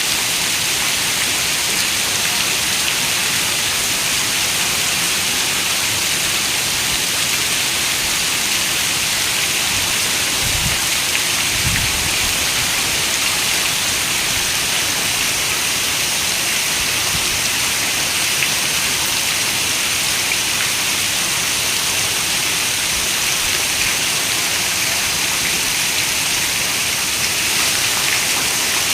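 Steady rain falling, an even, unbroken hiss of many raindrops. About ten seconds in a brief low rumble sounds beneath it.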